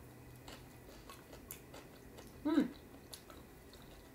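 A person chewing a mouthful of rice, with small scattered mouth clicks. About two and a half seconds in there is a short hummed 'mm' that falls in pitch.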